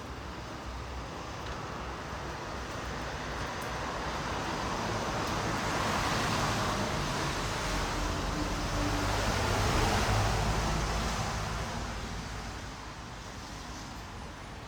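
A vehicle passing by: a rushing noise that builds over several seconds, peaks past the middle and fades away near the end.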